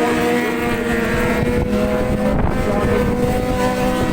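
Racing motorcycle engines running steadily, their pitch shifting a little, with wind buffeting the microphone.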